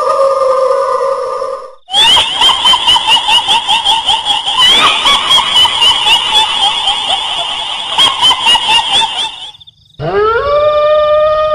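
Kuntilanak ghost voice effect: a long high wail that breaks off, then a shrill, rapid cackling laugh at about four pulses a second for some seven seconds. Another long wail starts near the end, rising in pitch and then holding.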